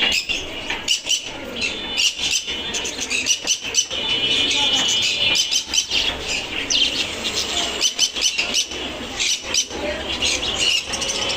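Many caged birds calling together: a continuous chatter of high chirps and squeaks.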